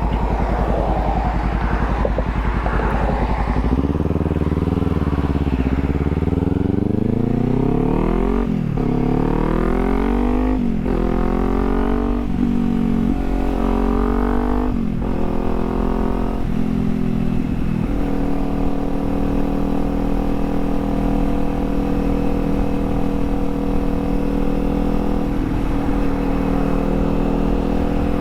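Kawasaki Z400's 399 cc parallel-twin engine pulling away. It climbs in pitch through the gears, dropping sharply at each of several upshifts, then settles to a steady cruising note for the last third.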